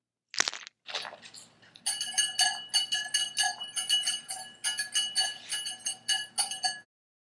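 A sharp knock and a short rattle, then rapid clinking strikes on something that rings, about four a second, for around five seconds, stopping suddenly.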